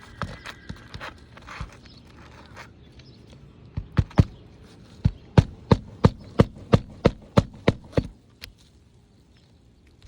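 Hammer driving roofing nails into an asphalt shingle: a few light knocks, then a run of about a dozen sharp blows, roughly three a second, from about four seconds in to about eight seconds in.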